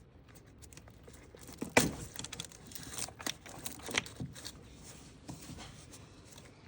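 Scattered clicks, knocks and rustling of hands and tools working around an engine, unhooking sensor connectors, hoses and wiring. The sharpest knock comes about two seconds in.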